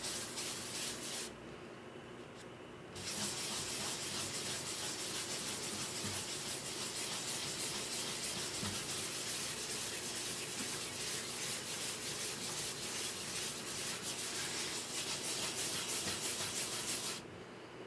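Steady sanding-like rubbing on the guitar under repair. It stops for about a second and a half shortly after the start, then runs on until it stops again near the end.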